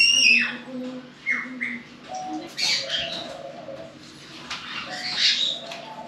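Birds calling: a few short falling chirps, then harsher squawks around the middle and again near the end.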